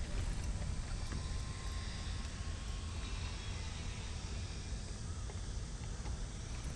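Low, steady rumbling noise with faint outdoor hiss and a few light clicks.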